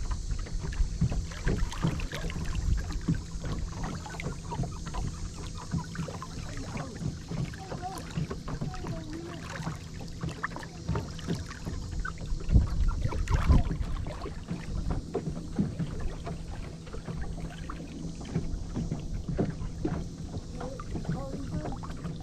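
Small fishing boat afloat: irregular low knocks and bumps against the hull over a steady low rumble, louder for a couple of seconds about twelve seconds in.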